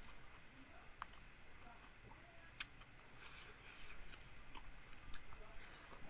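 Crickets or similar insects trilling steadily and faintly, with a few scattered sharp clicks over it, the clearest about two and a half seconds in.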